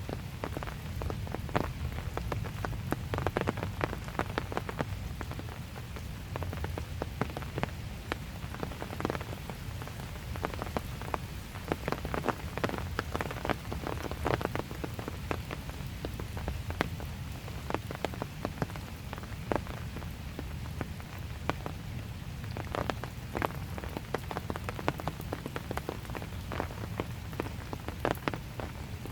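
Light steady rain with many separate drops ticking on hard surfaces close by, over a low steady rumble.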